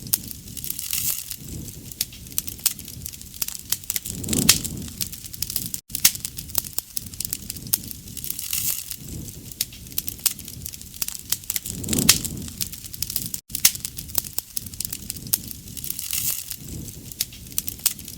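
Wood fire crackling and popping steadily, with many sharp snaps and a soft swell of low flame noise every few seconds.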